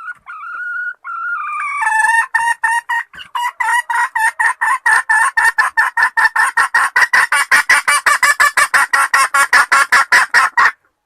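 Junglefowl hen calling the male. It opens with a couple of short rising notes, then breaks into a long run of clucks that quicken to about six a second and grow louder, ending abruptly.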